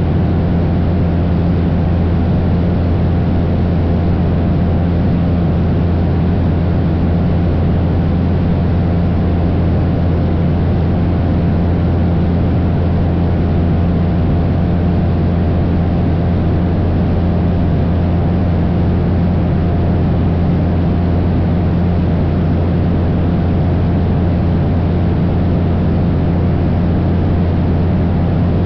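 Cessna 172's four-cylinder piston engine and propeller droning steadily in cruise flight, a constant low hum with no change in pitch.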